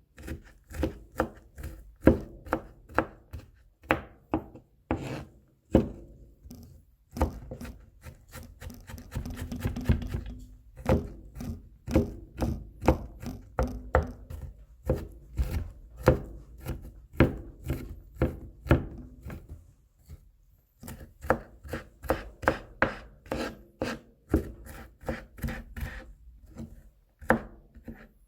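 Kitchen knife mincing garlic on a cutting board: quick repeated chops, about two to three a second, with a few seconds of scraping and rubbing along the board near the middle and a brief pause about two-thirds of the way through.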